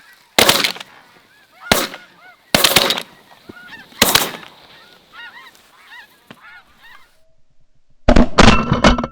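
Shotgun volley into a flock of snow geese: about five shotgun blasts in the first four and a half seconds, with the geese honking all through and on for a few seconds after the last shot. Near the end there is a short, loud burst of dense noise.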